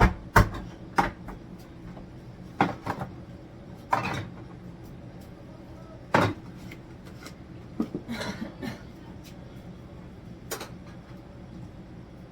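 Food jars and containers being set down and shifted on fridge shelves: a string of separate knocks and clunks, irregularly spaced a second or a few seconds apart, with a small cluster of them about eight seconds in.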